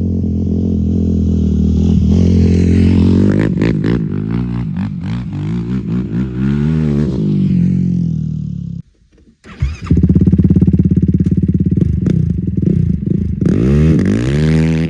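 Yamaha YFZ450R quad's single-cylinder four-stroke engine, fitted with a Dasa full exhaust and an Alba ECU tune, revving up and down, loud. The sound breaks off for about a second around nine seconds in, then the engine picks up again.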